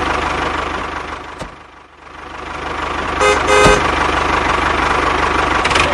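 A vehicle engine running with a steady chug. It fades down about a second and a half in and builds back up. Two short horn toots sound near the middle.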